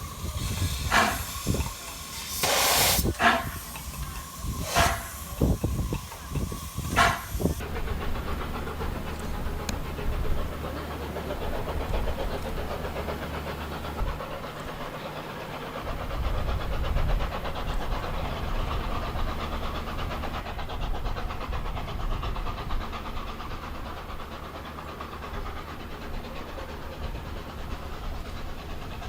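Gresley A4 Pacific three-cylinder steam locomotive hissing steam, with about five loud, sharp exhaust chuffs spaced a second or two apart in the first seven seconds. After that comes a steadier, duller hiss and rumble.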